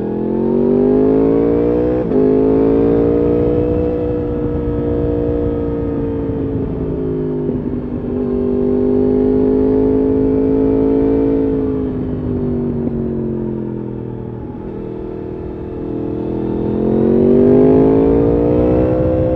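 Yamaha R1 RN22's crossplane inline-four engine running through an Akrapovič exhaust, heard from the rider's seat. The engine note climbs, holds, eases off and climbs again several times, with a few brief breaks in the note.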